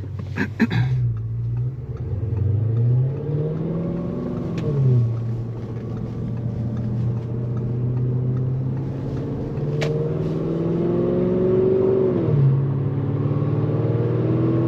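Tuned Audi S6 engine pulling under acceleration. The revs climb and fall back at gear changes about five seconds in and again near the end, and there is one sharp click near the ten-second mark.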